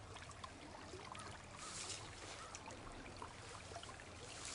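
Faint trickle of a small, narrow creek running quickly over gravel where deflectors constrict the channel, with scattered small clicks and two brief hissy swells.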